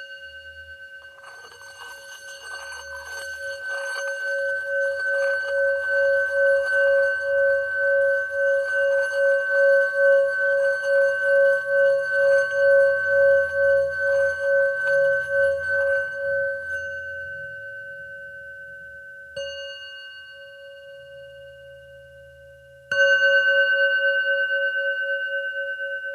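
Singing bowl ringing: its tone swells and pulses in a slow wobble for about fifteen seconds, with a rough rubbing texture on top, then fades. It is tapped lightly, then struck firmly near the end, the tone jumping back up and ringing on.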